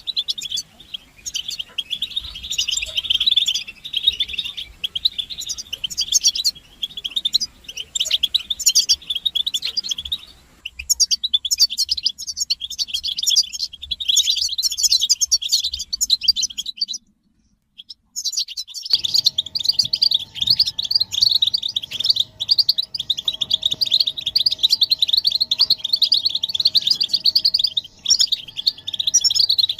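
European goldfinches chattering and twittering together, a dense stream of rapid high calls. These are the excited mating and readiness calls used to stir male goldfinches into song. The sound cuts out for about a second and a half some two-thirds of the way through, then resumes.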